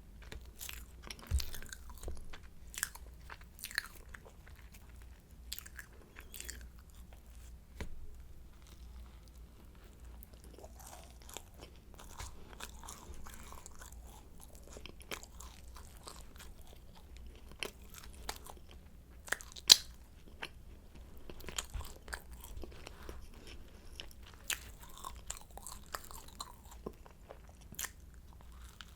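Close-miked chewing and biting of flaky croissant pastry, with irregular crisp crackles. The sharpest snap comes about two-thirds of the way through.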